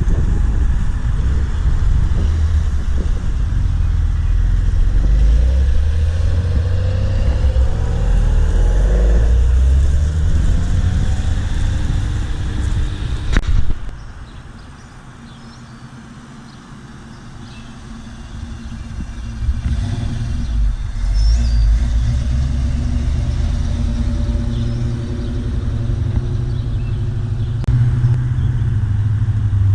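Car engines rumbling as vehicles drive by, one rising in pitch as it accelerates. Partway through the rumble cuts off abruptly after a sharp click and goes quiet. It then builds again as another engine approaches.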